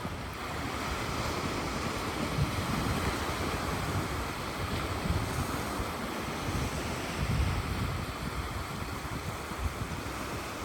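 Sea surf washing onto the beach, with gusts of wind rumbling on the microphone.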